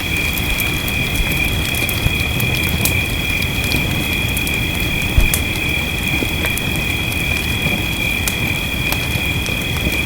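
Wood fire crackling with scattered sharp pops, one louder pop about five seconds in, over a steady hiss and rumble of rain. A steady high-pitched drone on two pitches sits behind it.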